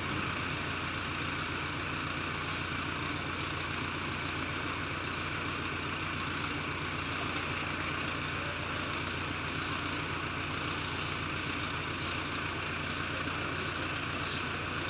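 Hydra crane's diesel engine running steadily at an even speed, with no change in pitch or level.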